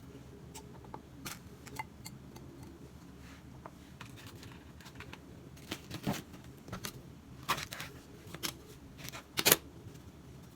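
Scattered clicks and knocks of kitchen utensils and dishes being handled, with the sharpest knock near the end.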